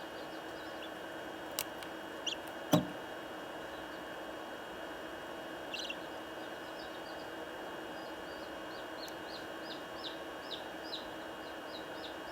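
Newly hatched chicks peeping: short high chirps that fall in pitch, a few at first, then about two a second from around nine seconds in, over a steady hum. A sharp knock near three seconds in is the loudest sound.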